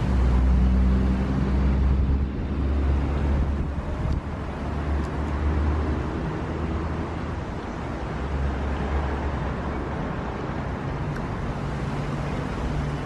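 Street traffic: a motor vehicle's engine running with a low, steady rumble, strongest in the first half and easing off after.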